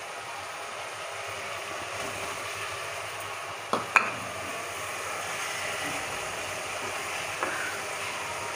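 Masala with green peas sizzling steadily in a kadai, with two sharp knocks a little before halfway and a spoon stirring through the pan near the end.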